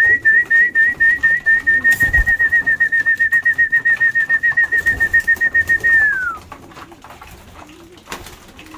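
A loud, high trilling whistle tone, rapidly pulsing at a steady pitch for about six seconds, then sliding down in pitch as it stops.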